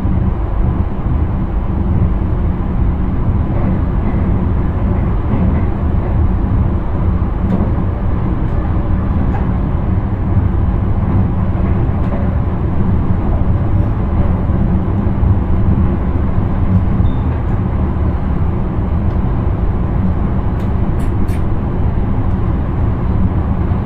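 Steady running noise of an electric intercity train heard from inside the driver's cab: a constant low rumble of wheels on rail and motors, with a few faint ticks late on.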